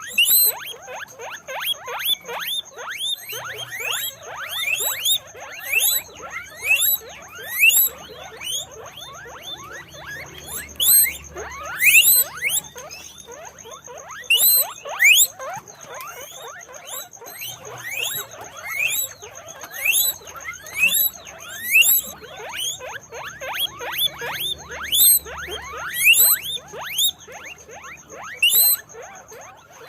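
Guinea pigs squeaking: many short, quick squeaks, overlapping and coming in louder clusters every second or two.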